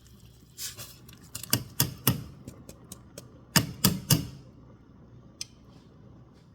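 Sharp taps against a soup pot as rinsed rice is added, in two quick groups of about three knocks, with a few fainter ticks between.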